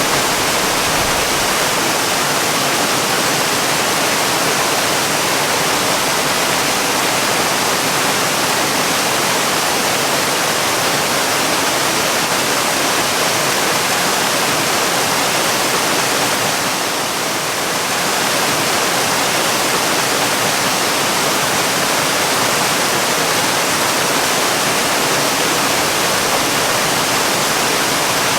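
Waterfall rushing in a steady, even roar of falling water, softening slightly for a moment about two-thirds of the way through.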